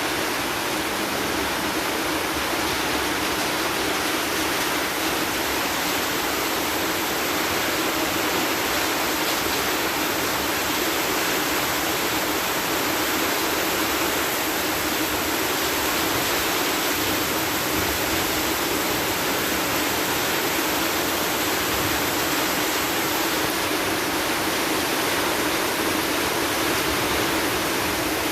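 Heavy rainstorm with strong wind: a steady, unbroken rushing noise that does not let up.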